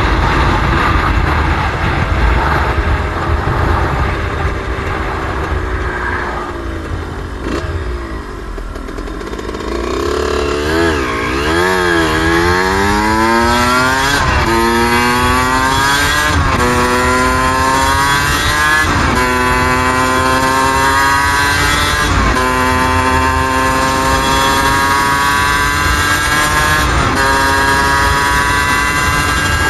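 Suzuki RM125 two-stroke dirt bike engine under way. It eases off and drops in pitch a few seconds in, revs briefly, then accelerates hard with a climbing pitch that drops back at each of about five upshifts. Wind noise rumbles on the microphone.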